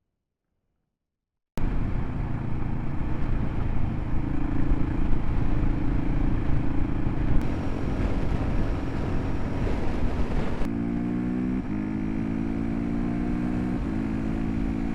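Near silence for about a second and a half, then a single-cylinder dual-sport motorcycle engine running under way, with wind and road noise. Near the end the engine's pitch steps up and down a few times as the throttle and gears change.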